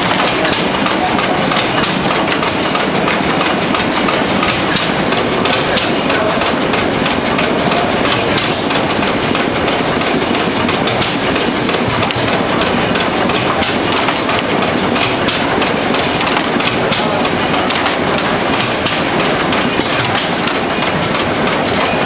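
Antique stationary engine running with a steady mechanical clatter of many quick clicks and knocks.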